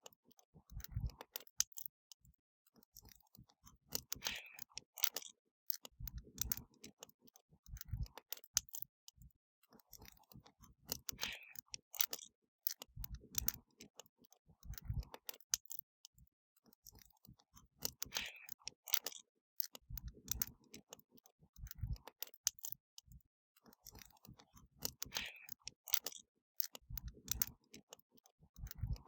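Wood fire crackling: irregular sharp pops and snaps, with short soft low thuds among them. The same pattern of pops and thuds repeats about every seven seconds.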